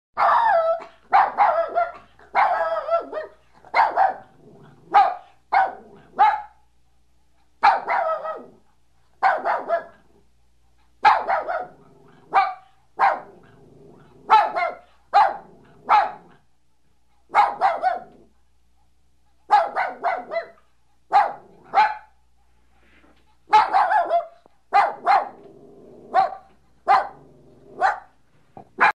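Dog barking repeatedly: short single barks roughly a second apart, broken by a few pauses of a second or two.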